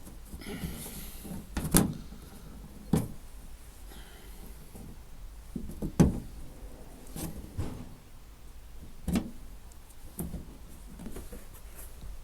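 Irregular sharp knocks and clicks, a second or two apart, from the trim panel and plastic push clips of a van's rear door being pulled and handled.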